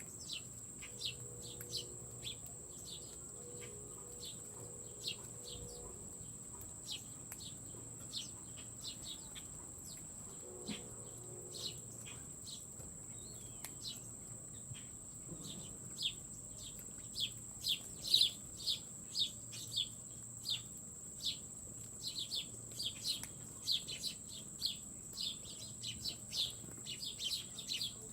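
Small birds chirping in short, sharp calls, scattered at first and coming thick and fast in the second half. A steady high-pitched whine runs underneath.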